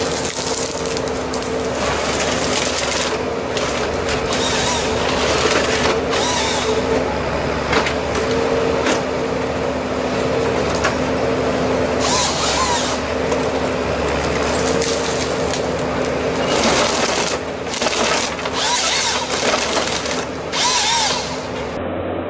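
Engine-driven saw running at a steady speed, with repeated bursts of cutting noise as it bites into wood.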